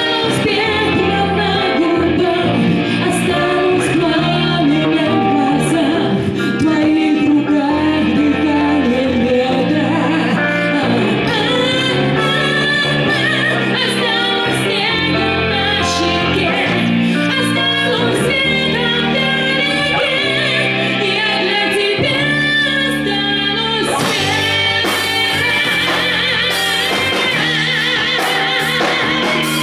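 Live band music: a pop song passage with bass, a steady beat and a wavering lead melody, with no lyrics sung.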